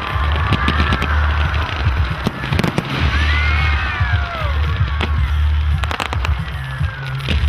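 Crack-a-jack fireworks crackling, with many quick sharp pops scattered through, over a steady deep rumble that breaks off and comes back, and a few falling whistling tones near the middle.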